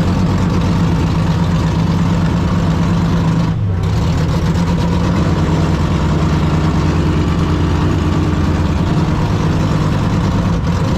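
A V8 drag-car engine idling steadily, with a brief drop in the sound about three and a half seconds in.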